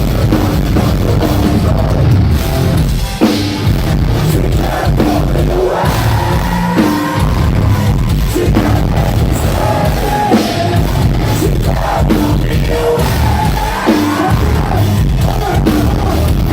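Loud live metalcore band performance, with a pounding drum kit, heavy low end and singing over it.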